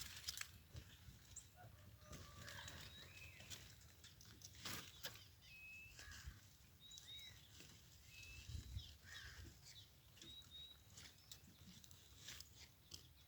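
Faint, scattered short chirps of small birds.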